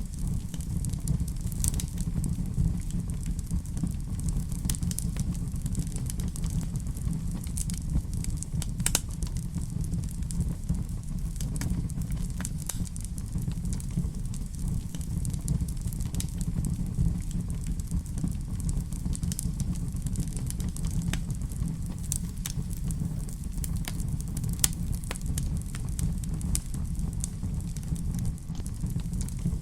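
Wood fire crackling in a fireplace: a steady low rumble of flames with frequent scattered sharp pops and snaps.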